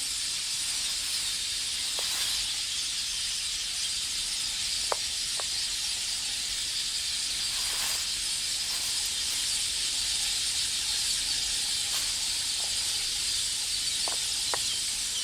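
Steady high-pitched hiss of outdoor ambience, broken by scattered short sharp clicks, a few close together near the end: marabou storks clacking their bills as they snap up armyworms.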